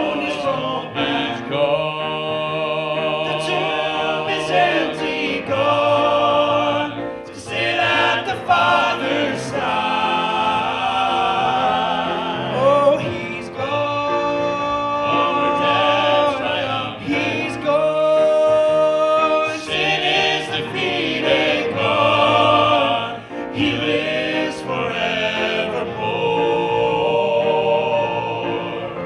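A vocal group singing a gospel song in several-part harmony, with accompaniment.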